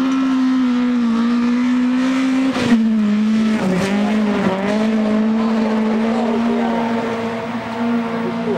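Toyota Corolla GT rally car's four-cylinder engine running flat out at high revs, holding a steady pitch, with a brief sharp knock about a third of the way in and a short dip in revs soon after.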